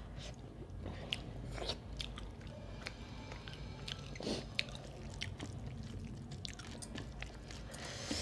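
Close-up chewing of a mouthful of rice and fish curry eaten by hand, with many small wet mouth clicks scattered throughout.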